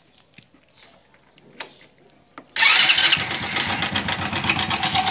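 A few faint clicks, then about two and a half seconds in the Honda Biz 100's single-cylinder engine starts suddenly and runs steadily. Its cam chain tensioner spring is out, with a hand tool pressed into the tensioner bore against the chain as a test for a loose, rattling cam chain.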